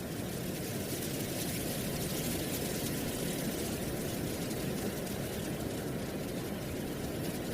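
Steady wind with dry autumn leaves rustling, a constant low rush under a light crackling hiss.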